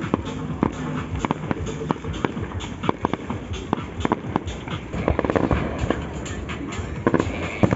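Fireworks going off in quick, irregular succession, several sharp bangs and cracks a second, with denser volleys about five seconds in and near the end, over music.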